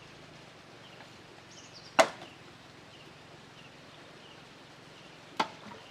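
Two sharp knocks, one about two seconds in and a softer one about three and a half seconds later, like chopping blows.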